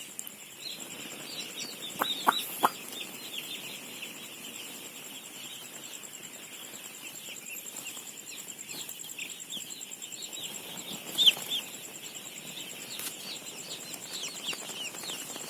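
A crowd of newly hatched chicks peeping constantly, many short high downward chirps overlapping. A few sharp clicks sound about two seconds in, and another near the eleven-second mark. A thin, steady high-pitched tone runs underneath.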